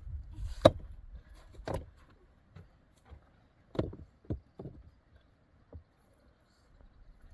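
A few irregular sharp knocks, the loudest about half a second in, others spaced unevenly over the next five seconds and growing fainter.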